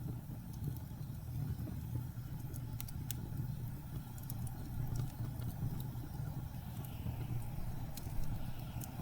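Steady low rumble of blizzard wind, with a few sharp, sparse crackles from burning wood in a fireplace.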